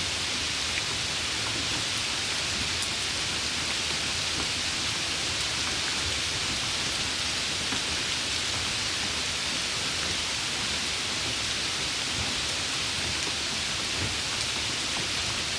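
Steady rain falling, an even hiss strongest in the upper range with faint scattered drop ticks.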